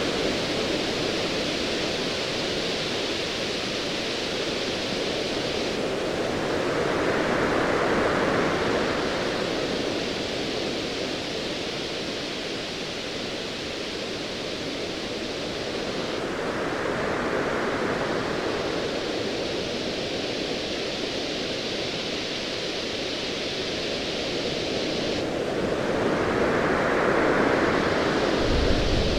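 Ocean waves as a steady wash of noise, swelling and easing in slow surges about every nine to ten seconds.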